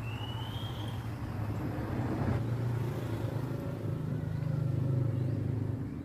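A small petrol engine running steadily, dropping away near the end.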